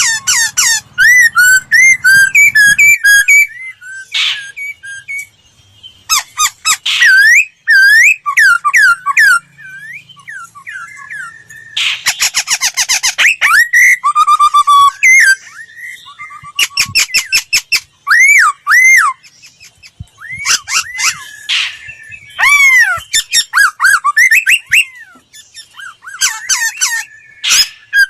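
Laughingthrush singing: quick, loud phrases of clear whistled notes sliding up and down, broken by short pauses, with a few harsh rasping bursts, the longest about twelve seconds in.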